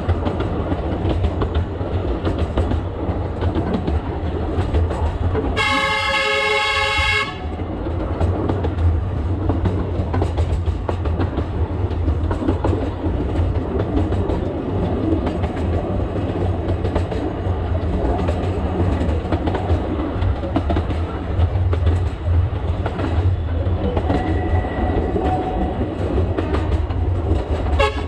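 Alishan Forest Railway narrow-gauge train running, heard from the cab: a steady low rumble of the engine and wheels on the track, with one horn blast lasting about a second and a half some six seconds in.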